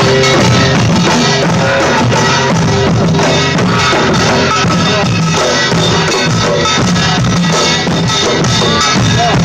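Live music played loud, with a drum kit keeping a steady beat under pitched instruments.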